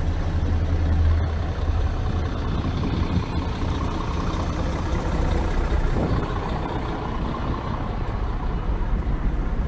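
Strong wind buffeting the microphone outdoors: a loud, steady low rumble with a rushing hiss above it.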